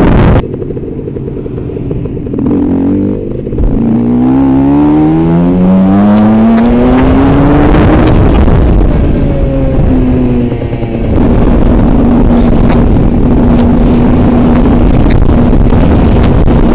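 Aprilia RS 125 two-stroke single-cylinder engine heard from a helmet-mounted camera while riding. After a quieter stretch, the engine note climbs steadily in pitch as the bike accelerates. Later, heavy wind noise on the microphone returns, with the engine holding a steady note beneath it.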